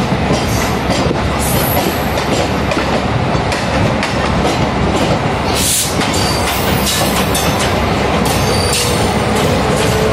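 Running noise of a moving train heard from its open doorway: a steady loud rumble and rush, with wheels clattering over rail joints and points, and a brief hiss about six seconds in.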